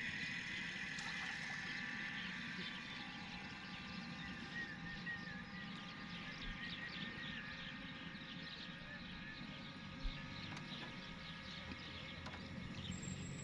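Faint rural outdoor ambience: a steady background of many small chirps with a thin high tone, and a single knock about ten seconds in.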